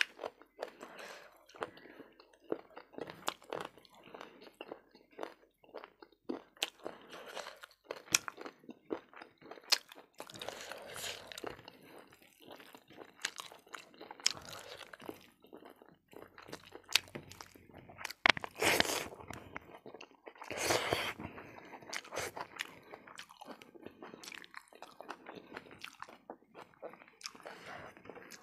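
Close-miked chewing by a person eating rice, greens and fried pork ear by hand, with many small mouth clicks and smacks between crunches. Two louder, longer crunches come a little past the middle.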